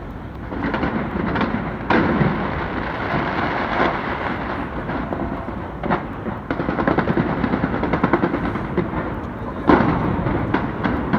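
Fireworks going off: a string of sharp bangs, with a dense run of rapid crackling about two-thirds of the way through and another loud bang near the end.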